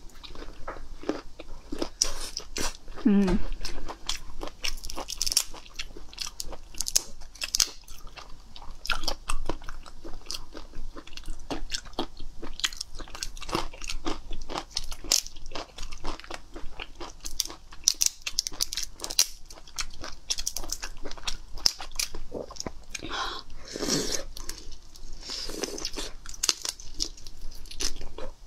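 Close-miked eating of raw prawns: wet chewing, lip smacks and slurps, with a steady run of short crackles as the prawn shells are peeled and cracked by hand.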